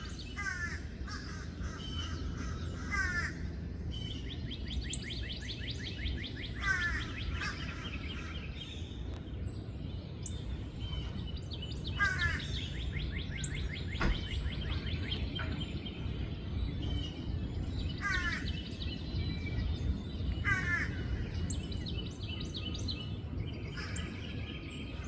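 Birds singing: short phrases of quick downward-sweeping notes repeating every few seconds, with fast high trills between them, over a steady low rumble.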